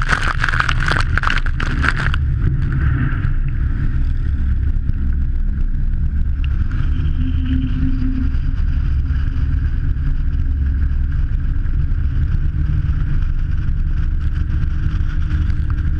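Engines of a Che-22 Korvet twin-engine amphibious aircraft running steadily with a deep, continuous rumble as it moves on the water. A rushing, buffeting noise rides on top for the first two seconds, then the sound settles to an even drone.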